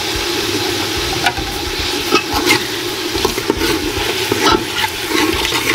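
Chicken pieces, fried onions and freshly added ginger-garlic paste sizzling in hot oil, stirred with a metal ladle that clicks and scrapes against the metal pot. The paste is being fried briefly to cook off its raw smell.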